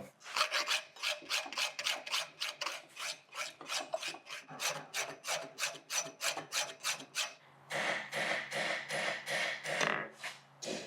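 Hand file hot-filing a forged steel bar clamped in a post vise, with quick rasping strokes at about four a second. The strokes turn longer and closer together later on. The filing clears out a cold shut that is starting to form in the forging.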